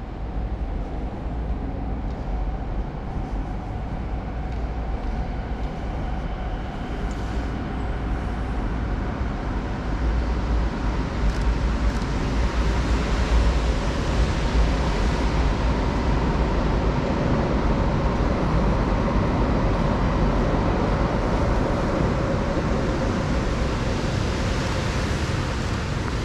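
Steady low rumble of passing vehicles with a faint whine over it, growing louder about ten seconds in.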